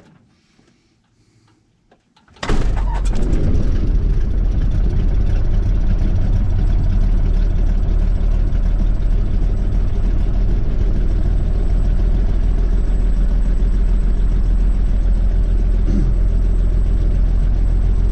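The six-cylinder Continental O-300 engine of a 1954 Cessna 170B is started. It catches suddenly about two and a half seconds in and then runs steady and loud.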